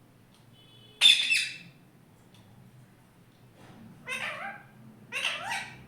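Pet parrot calling: three loud calls, the first about a second in, the next two near the end, the later ones falling in pitch.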